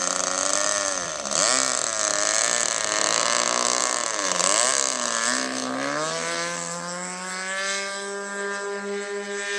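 RC model airplane engine on a crosswind takeoff run, its pitch swooping up and down with the throttle for about six seconds, then rising and holding steady at full power as the plane climbs out. The takeoff is a sloppy one.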